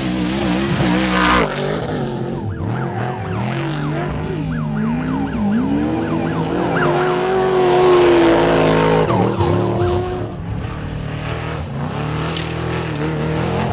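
Off-road race truck engine revving, its pitch rising and falling repeatedly as the throttle comes on and off, then holding a high steady rev for a couple of seconds around the middle.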